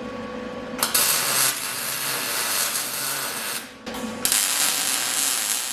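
Power tool cutting into a steel tube to take a little more out of a roll-cage tube notch. It runs with a steady hum for about a second, then cuts in two long, hissy passes of about three and two seconds with a short break between.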